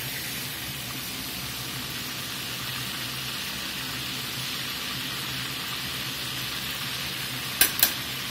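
Breaded cube steaks frying in hot oil in a cast iron skillet: a steady sizzling hiss. Two sharp clicks near the end.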